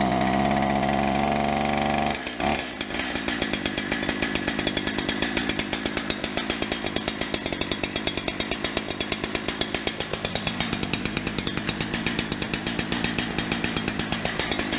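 Holzfforma 372XP two-stroke chainsaw running just after clearing a flood, started with no choke at full throttle. It holds a steady high-revving note for about two seconds, then drops to a fast, evenly pulsing lower-speed run.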